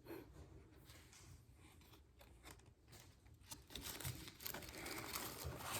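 Food packaging crinkling and rustling as it is handled. It is faint at first and grows busier, with many small crackles, from about halfway in.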